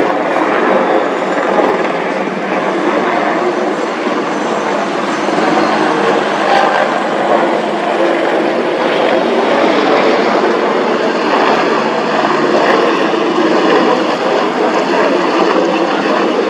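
AH-64E Apache attack helicopter flying, its rotor and twin turboshaft engines making a loud, steady noise.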